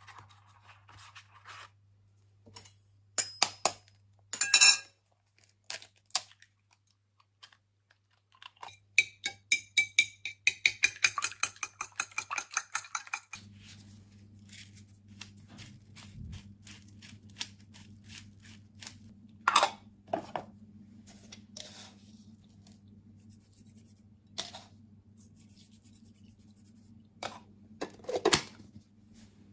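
Kitchen sounds: dishes and cutlery clinking and tapping, with a quick run of rattling clicks. About halfway through, an appliance starts a steady low hum, and more clinks follow over it.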